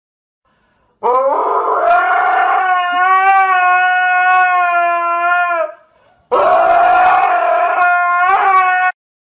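A dog howling: two long, steady howls, the first about four and a half seconds long, the second shorter with a brief waver in pitch near its end.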